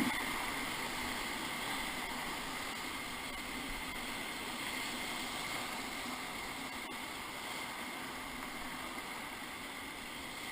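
Whitewater river rushing steadily around a raft, an even hiss of moving water.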